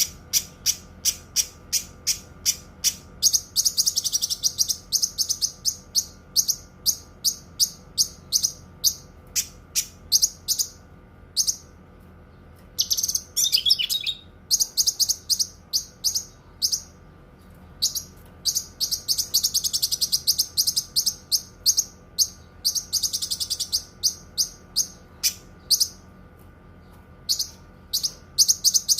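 Cucak kinoi songbird calling: sharp high chirps repeated two to three a second, twice running together into fast dense trills, with a short falling warble about halfway through.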